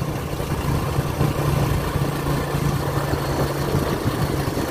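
Motorcycle engine running steadily at an even pitch over a constant rushing noise.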